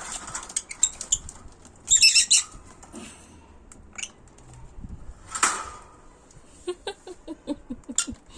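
Small pet birds moving about in a cage, with loud bursts of wing-flapping about two seconds in and again past the middle. Near the end comes a quick run of short, sharp sounds.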